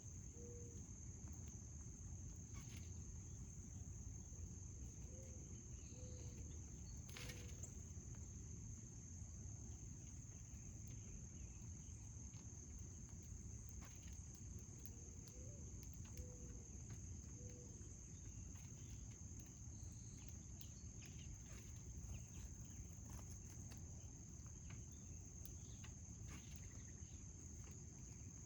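Faint, steady high-pitched trill of crickets chirring without a break, over low outdoor background noise.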